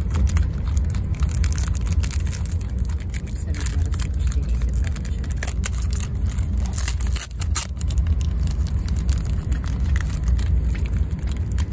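Steady low rumble of a moving train, heard from inside the carriage. Over it come crinkling of a plastic food packet and light clicks and scrapes of a fork stirring rice in a plastic tray.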